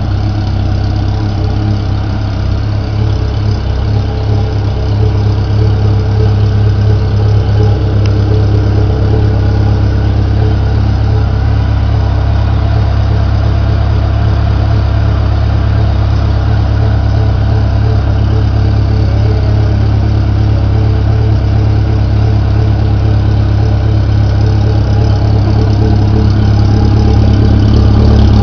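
Suzuki GSX 750F's inline-four engine idling through an aftermarket Sarachú exhaust, a steady deep note that grows a little louder about five seconds in and again near the end.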